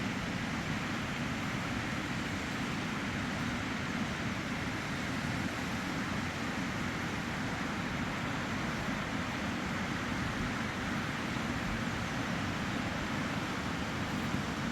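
Steady rushing of a flooded river's fast-flowing water, an even noise that neither rises nor falls.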